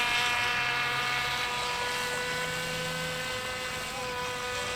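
Brushless electric motor of a radio-controlled boat running at steady speed with a high, even whine, slowly getting quieter.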